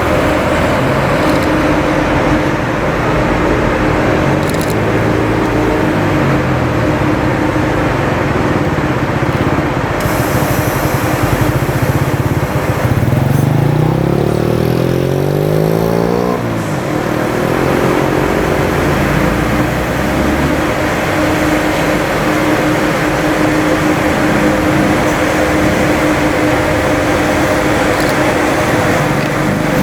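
Alstom 'Nez Cassé' electric locomotive hauling a freight train, a loud steady rumble with a constant hum. About halfway through, a sweeping tone swells and fades as something passes close by.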